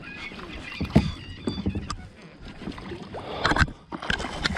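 Knocks and rustling of gear on a small kayak as a large bass is fought up to the boat, with a sharp knock about a second in and another cluster of knocks near the end.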